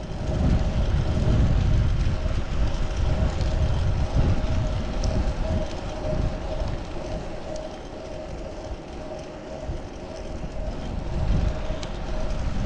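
Wind buffeting the microphone of a chest-mounted GoPro on a moving fixed-gear bike, over tyre and road rumble, with a steady faint hum throughout.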